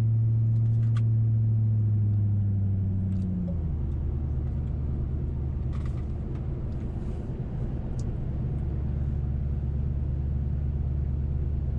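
Mercury Grand Marquis 4.6-litre V8 with a muffler delete and H-pipe, heard from inside the cabin while driving: a loud, steady exhaust drone that drops to a lower pitch and gets a bit quieter about three and a half seconds in as the engine speed falls, then runs on evenly.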